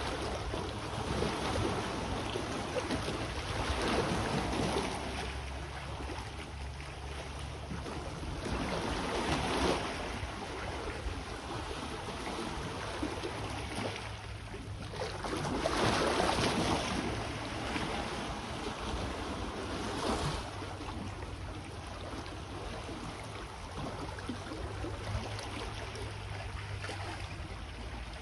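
Sea waves breaking and washing onto the shore, swelling up in several surges a few seconds apart, the biggest about halfway through. A steady low rumble of wind on the microphone runs underneath.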